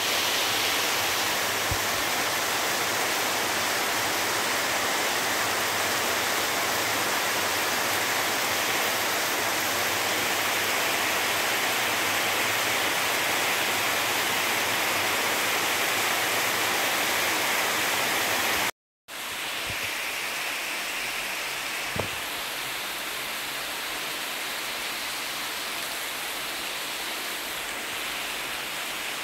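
Heavy rain falling steadily, a dense even hiss. About two-thirds of the way through it drops out for a moment and comes back a little softer, with a single short knock a few seconds later.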